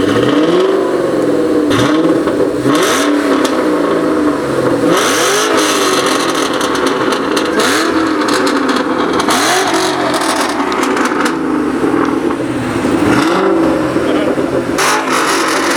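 A car engine with a loud exhaust is revved again and again, its pitch rising and falling roughly every one to two seconds.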